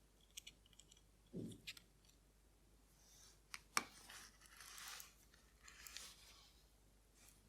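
Faint clicks and scrapes of small metal tools handling the parts of a vintage Orient caliber 4694 watch being taken apart: light ticks early on, a soft thump about a second and a half in, a sharper click near four seconds in, and short scraping sounds after it.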